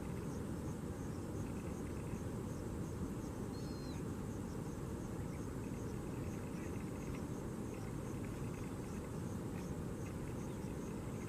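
Open-air ambience of a steady low rumble, with faint insect chirps repeating evenly high above it and one short bird chirp about three and a half seconds in.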